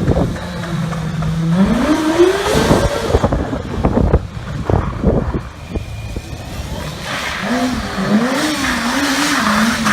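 Stunt motorcycle engine revving: it holds a steady note, climbs sharply about two seconds in, then is blipped up and down repeatedly in the last few seconds.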